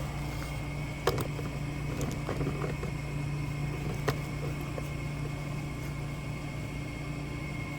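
A steady low mechanical hum, with a few light clicks and knocks of metal hydraulic drive-motor parts being handled for reassembly, the sharpest about a second in and about four seconds in.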